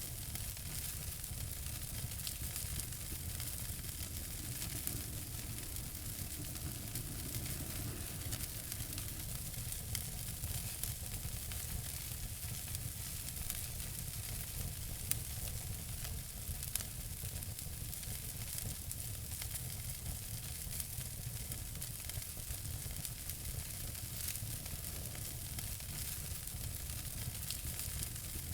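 Wood fire crackling in a fireplace: a steady hiss with many small sharp pops scattered through it over a low rumble.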